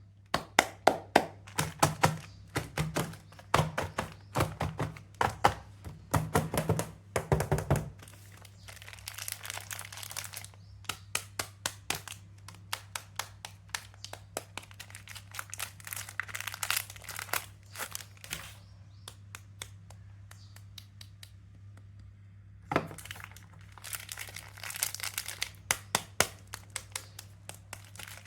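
Soap packaging being unwrapped by hand: crisp crinkling and crackling of wrappers with many sharp clicks and taps, over a low steady hum. It thins out for a few seconds past the middle, then resumes.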